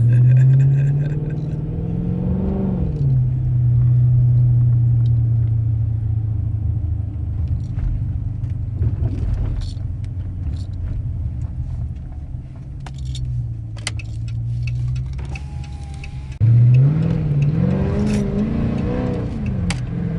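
2013 Dodge Charger R/T's V8 engine accelerating: the pitch climbs for a couple of seconds, then settles into a steady cruise. About three-quarters of the way through, the throttle is suddenly opened hard, and for a few seconds the engine revs rise and fall sharply before it settles again.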